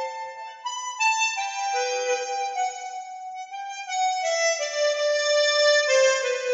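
Harmonica playing a slow melody of long held notes, moving from note to note about once a second.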